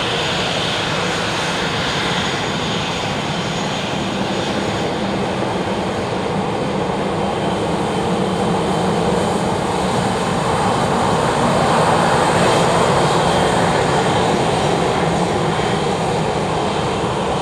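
Fixed-wing aircraft engine running steadily, growing louder towards the middle and then easing off.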